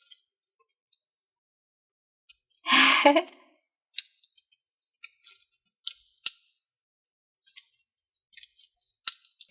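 Clear thinking putty being stretched and squished by hand: scattered sticky clicks and snaps, with a louder squelch about three seconds in.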